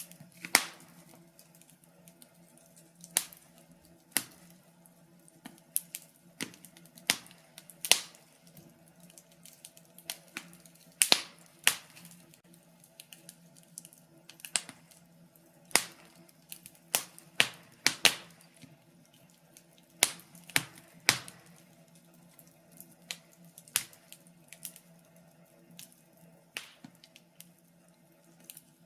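Wood fire crackling in a fireplace, with irregular sharp pops and snaps over a faint steady low hum.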